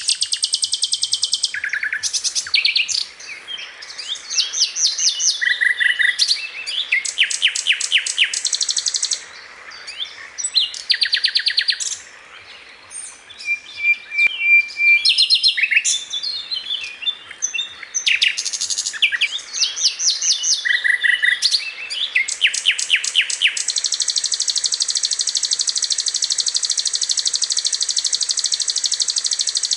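Songbird song from a masteran birdsong recording, made up of varied high-pitched phrases of rapid trills and repeated chips with short pauses between them. In the last few seconds it settles into one long continuous fast trill.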